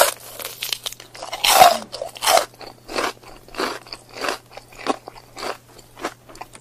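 A person biting and chewing an adobo chicken foot: crunchy chews about one every two-thirds of a second, the loudest at the start and about a second and a half in.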